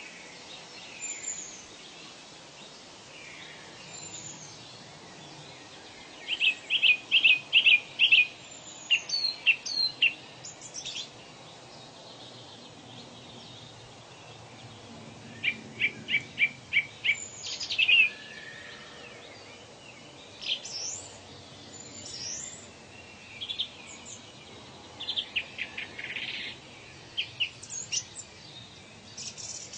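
Several wild birds calling and singing over a steady background hiss. One bird gives a loud run of quick repeated notes about six seconds in and again about fifteen seconds in, and high thin whistled calls come and go throughout.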